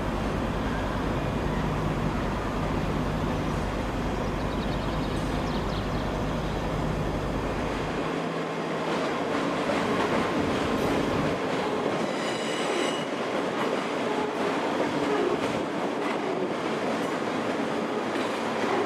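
ScotRail electric multiple units moving through the station. First a departing train's low rumble, then after a change about eight seconds in, a Class 385 electric train running in on arrival, with wheel clicks over the rail joints and a brief high-pitched squeal about twelve seconds in.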